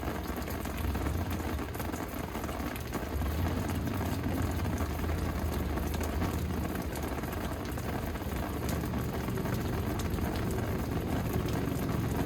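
Steady rain falling, with scattered drop taps and a steady low rumble underneath.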